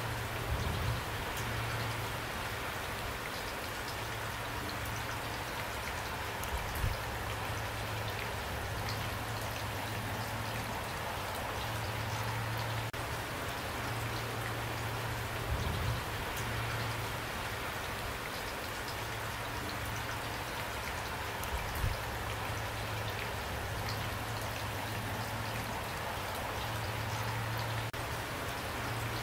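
Steady rain falling, a dense even patter. A few louder soft thumps stand out, about four in all, and a low hum comes and goes underneath.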